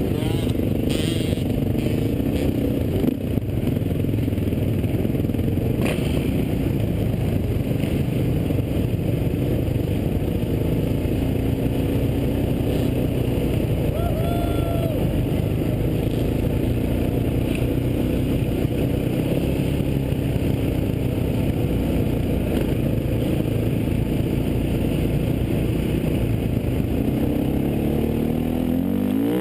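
Racing quad engines revving continuously, the pitch wandering up and down with the throttle and climbing near the end.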